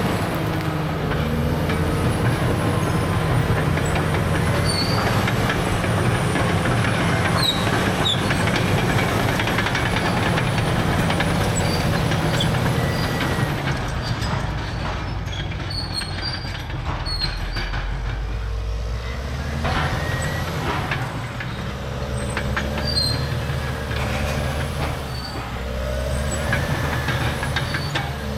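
Caterpillar D6R crawler dozer working: the C9 diesel runs steadily under load while the steel tracks squeal and clank. The engine note drops for a few seconds about halfway through, then picks back up.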